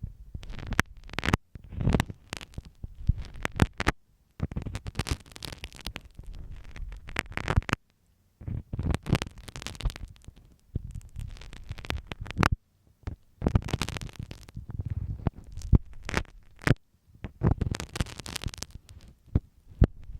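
Marking pin used as an ear pick, scratching and rubbing in close, irregular strokes with a deep rumbling undertone, broken by a few short pauses.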